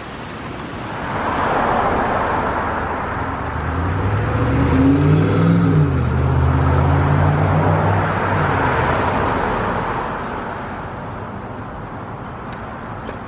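Road traffic: motor vehicles passing close by, tyre and road noise swelling and then fading over several seconds, with an engine's low hum in the middle.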